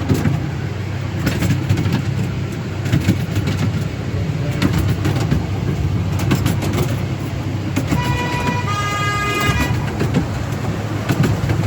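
Miniature railway train running, a steady low rumble with clicks from the wheels on the track. About 8 s in, the locomotive gives a single toot lasting under two seconds that steps up in pitch partway through.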